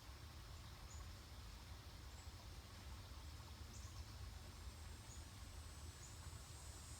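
Near silence: a steady faint low rumble with a few faint, scattered high ticks.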